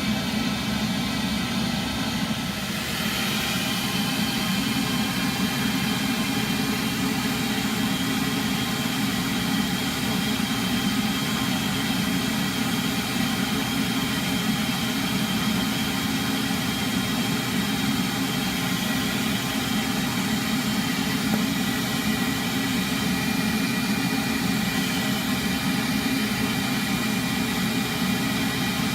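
A motor-driven machine running steadily: a constant low hum with thin whining tones above it that brighten about two and a half seconds in.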